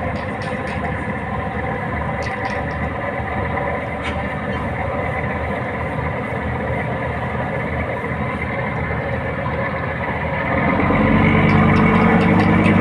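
Diesel engines of wooden fishing boats running steadily. About ten seconds in, a louder, deeper engine sound comes in close.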